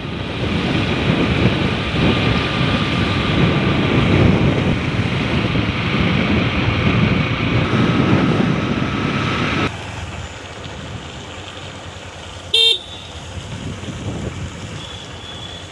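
Steady street noise of road traffic that drops sharply about ten seconds in, with one short vehicle horn beep a few seconds later.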